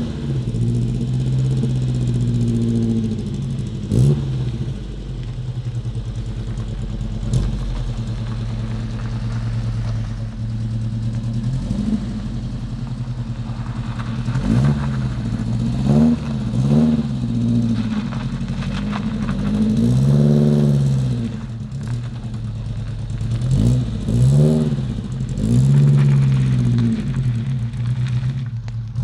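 Volvo 145's Weber-carburetted engine running at idle and repeatedly blipped, its pitch rising and falling again with each blip, more often in the second half; a couple of sharp knocks early on.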